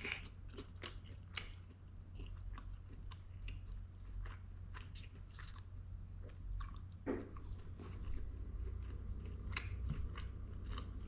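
A person chewing a mouthful of chicken taco dipped in sauce, close to the microphone: irregular wet mouth clicks and bites over a low steady hum.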